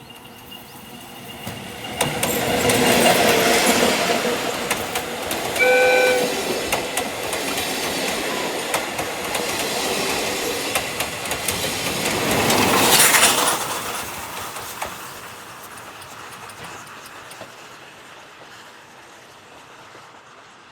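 Oigawa Railway train, electric locomotive E101 with steam locomotive C10 8, passing on its wheels and rails, loudest at about 3 seconds and again at about 13 seconds, then fading away. One short whistle blast sounds about six seconds in.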